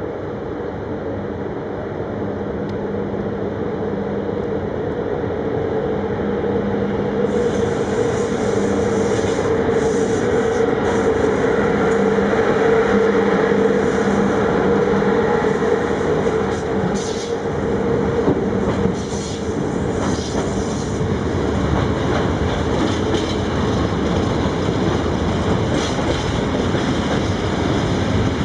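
A CFR Marfă freight train running past on the rails, with a steady hum over the rumble; it grows louder over the first dozen seconds and then holds.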